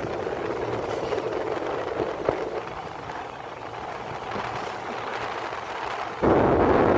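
Passenger train running at speed: a steady rumble and rush of air with a single click about two seconds in, then suddenly much louder near the end.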